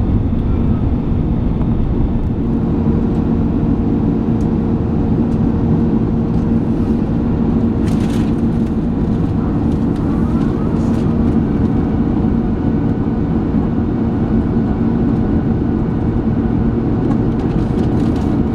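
Steady loud rumble and hum inside the cabin of an Airbus A380, with a few faint clicks about halfway through.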